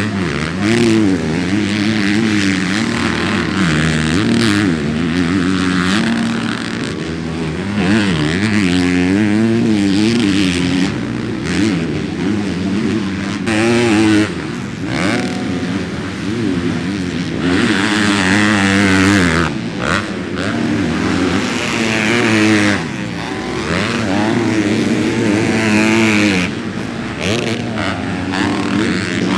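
Motocross bike engine revving hard, its pitch rising and falling again and again as the rider accelerates, shifts and backs off around the track.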